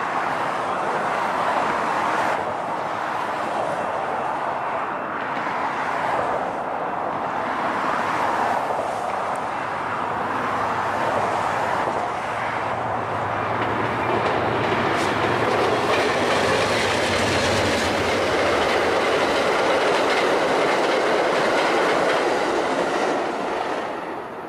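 Amtrak's Southwest Chief passenger train passing the station, its cars running steadily over the rails, with the sound easing off near the end as the train goes by.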